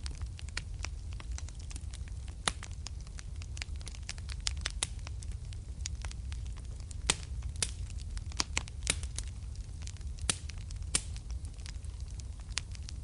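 Wood fire crackling in a fireplace: irregular sharp pops and snaps over a low steady rumble of flame, with a few louder pops scattered through.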